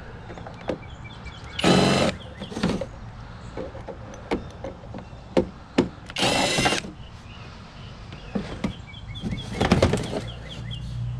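Scattered knocks and clicks from scrap being handled, with two short, loud, pitched clangs about 2 and 6.5 seconds in, and another cluster of knocks near the end.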